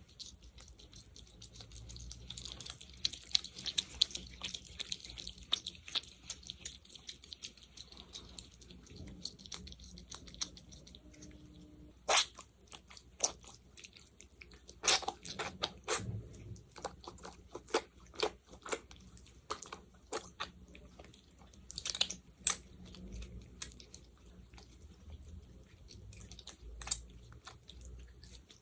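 Sticky gel worked close to the microphone by fingers, making ASMR sticky sounds: soft, crackly squishing at first, then from about halfway a run of sharp, irregular sticky pops and clicks as the gel is pressed and pulled apart.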